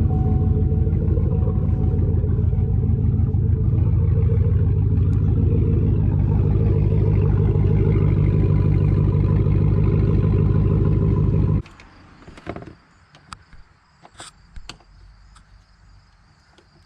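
A motor running steadily and loud with a low hum cuts off suddenly a little over eleven seconds in, leaving a few faint clicks and knocks.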